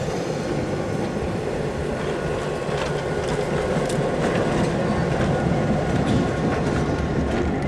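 Tail end of a passenger train rolling past close by: steel wheels clicking over the rail joints, with the trailing diesel locomotive's engine running as it goes by.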